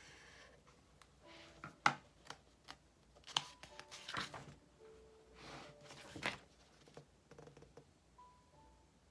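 A few crisp paper rustles and sharp taps, like book pages being turned and handled, over soft background music.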